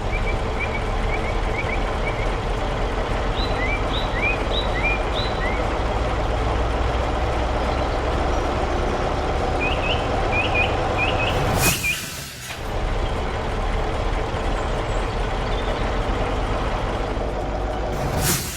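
Heavy truck's diesel engine running steadily, with a sharp air-brake hiss about twelve seconds in and again near the end.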